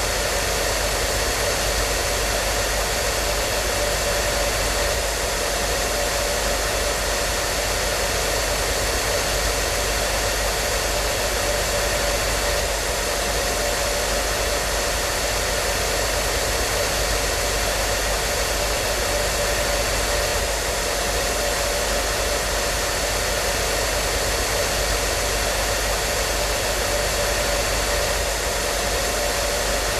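Hair dryer running continuously at a steady setting: an even rushing of air with a steady motor hum and whine, unchanging throughout.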